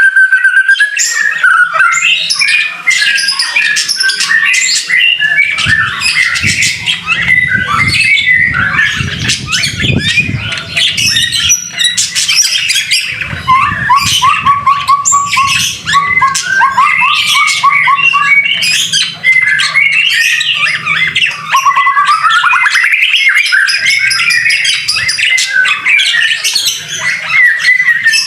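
White-rumped shama singing without pause: a fast, varied stream of whistles, chattering and rattling notes, with a run of rapidly repeated notes about halfway through.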